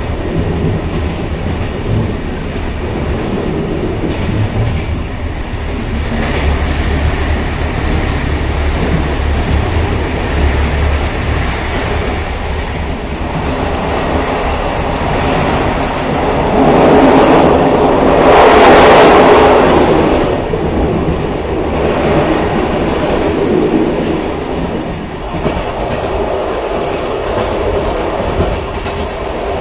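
Railcar running on rails: a continuous rumble with wheel clickety-clack. It swells louder and brighter for a few seconds past the middle, then settles back.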